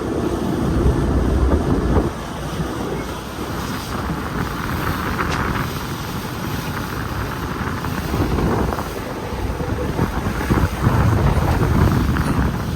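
Wind buffeting the microphone aboard a moving boat, over the steady rush of the boat through the water, with heavy gusts at the start and again near the end.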